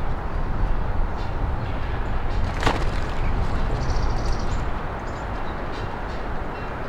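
Steady rumble of road traffic, with small birds giving short high chirps and a quick chattering call about four seconds in. A single sharp click comes near the middle.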